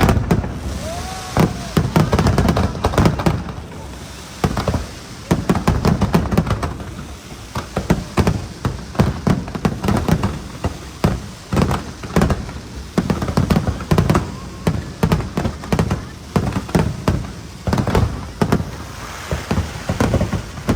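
Fireworks going off in quick, irregular succession: a steady run of sharp bangs, at times several a second.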